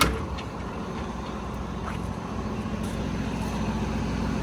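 The Hino 338's 7.6-liter turbo diesel engine idling steadily, with a sharp click at the very start.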